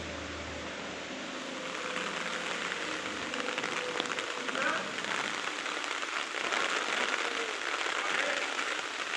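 Heavy rain falling, a steady hiss that grows louder and denser after about two seconds.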